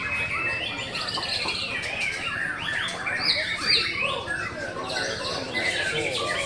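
Caged songbirds singing together: a dense, unbroken run of overlapping quick chirps, whistles and trills.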